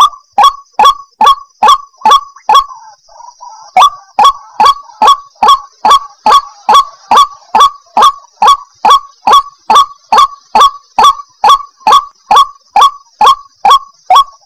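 White-breasted waterhen (ruak-ruak) calling: a loud, fast series of repeated call notes, about two and a half a second, with a short break about three seconds in.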